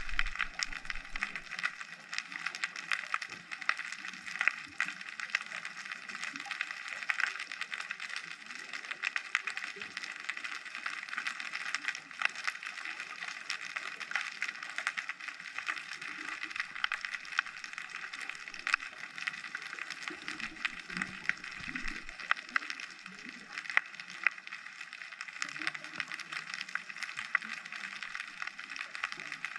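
Underwater ocean ambience picked up through a GoPro's housing: a constant dense crackling of countless tiny clicks, with a few soft low rumbles in between.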